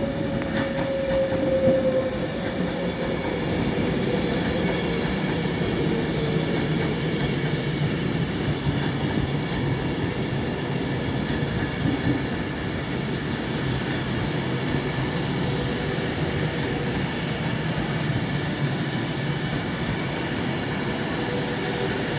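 Class 390 Pendolino electric train running in and slowing alongside a platform: a steady rumble with a whine that falls slightly in pitch over the first few seconds. A thin high squeal from the wheels or brakes about 18 seconds in lasts around three seconds.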